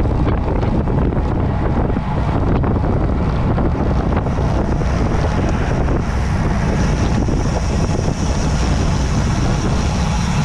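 Wind rushing over the microphone of a rider's camera while cycling at speed: a steady, loud, low rumble. A faint thin high whine joins in about four seconds in.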